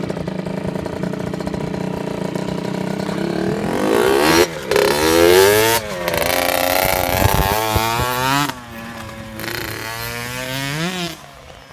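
Kawasaki KX60 two-stroke dirt bike engine running steadily for a few seconds, then revved up as it pulls away, the pitch climbing and dropping several times through the gear changes. It gets quieter near the end.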